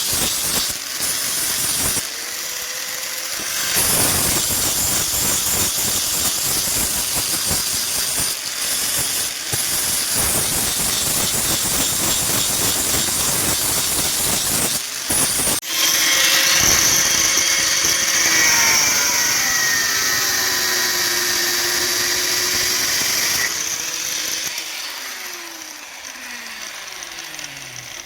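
Power tool running under load with a steady hissing, grinding noise; from about halfway a pitched whine joins it, and near the end the motor winds down, its pitch falling as it slows.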